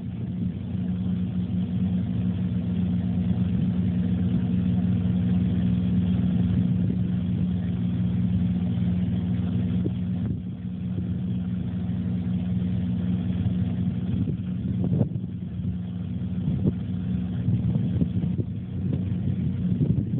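Jeep engine running at a steady low speed while crawling up a rough dirt trail, with a few knocks from the vehicle over the bumpy ground in the second half.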